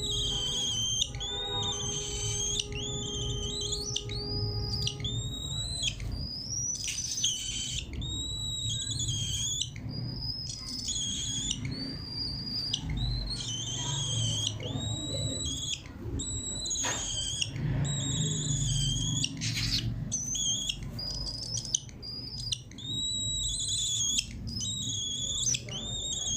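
Cockatiel calling over and over: a string of high, whistled chirps that rise and bend in pitch, one after another, over a low steady hum.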